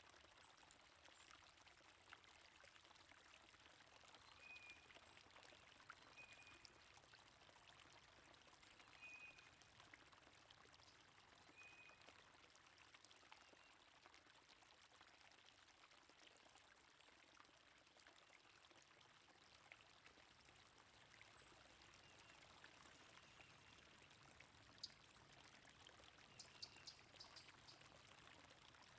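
Faint, steady flowing stream water, with a few short high bird chirps in the first half and a brief cluster of chirps near the end.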